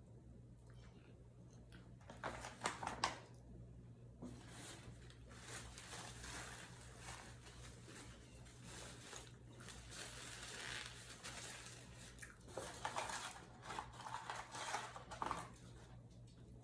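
Crunching and crinkling as a McDonald's spicy crispy chicken sandwich in its paper wrapper is handled and bitten into. There are sharp crackles a couple of seconds in, a long rustle, and more crackly bursts near the end.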